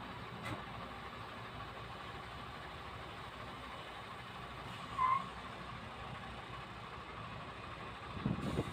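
A truck diesel engine idling steadily, with a short high chirp about five seconds in and heavier low rumbling starting near the end.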